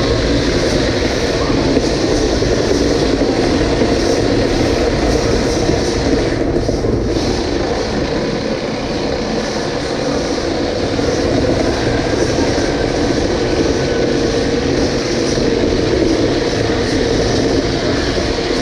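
Plastic antweight combat robots fighting in the arena: a loud, steady whir and rumble of their motors and spinning weapons, dipping briefly about six seconds in.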